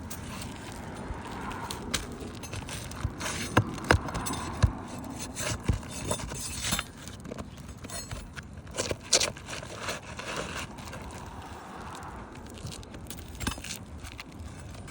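Asphalt roof shingles being handled and worked loose: irregular scraping with scattered sharp knocks and clicks, the loudest knocks a few seconds in and again around nine seconds.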